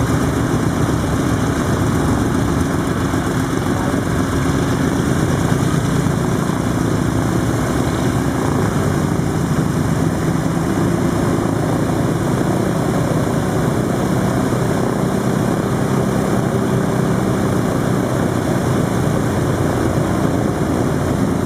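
Piston-engine propeller airplane running, a steady continuous drone.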